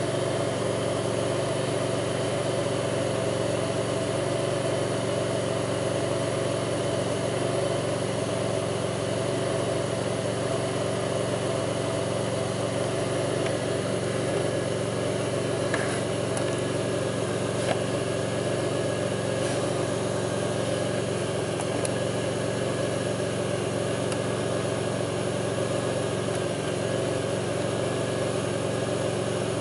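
2002 Pontiac Grand Prix's 3800 V6 engine idling steadily, with a few faint ticks about halfway through. The owner reports a rough idle with a faint, intermittent thumping that pulls the idle down.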